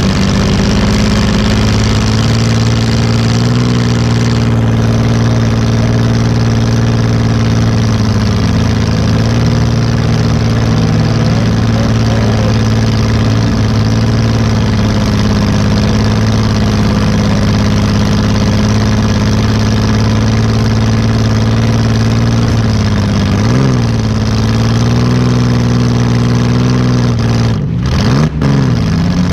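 2005 Chrysler Town and Country minivan's V6 engine running at a low, steady speed, heard from inside its gutted cabin. The pitch dips and comes back up briefly twice near the end.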